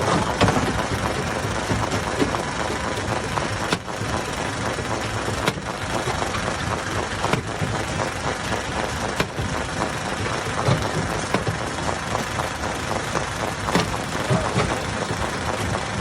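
Hammer stone crusher running under load: a steady, dense machine noise with scattered sharp knocks of rock being broken.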